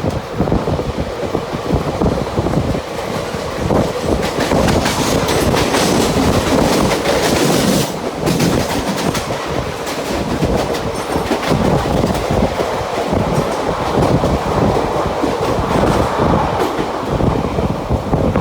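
A Mumbai suburban local electric train running, its wheels clattering rhythmically over the rail joints under a steady rumble. A louder rushing hiss builds in the middle and cuts off suddenly about eight seconds in.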